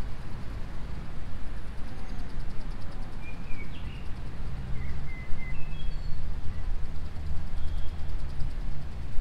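Steady low background rumble, with a few short, high bird chirps in the middle.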